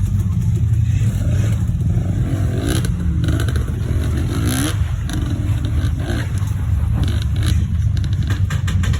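Dirt bike engine running and revving over rough ground, with scattered clattering knocks.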